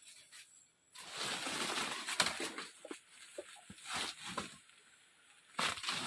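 Rustling and crackling of vegetation in a few bursts, with some sharp snaps among them.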